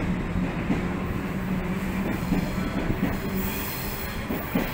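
Double-deck electric suburban train running along a platform: a steady low hum and wheels clicking over rail joints, with a high squeal coming in about three seconds in.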